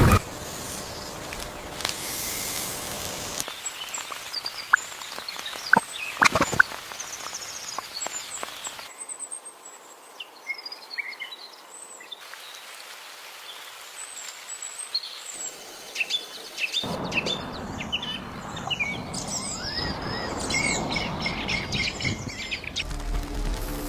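Small birds chirping and trilling in short high calls over outdoor background hiss, which changes abruptly several times. A few sharp clicks come in the first third.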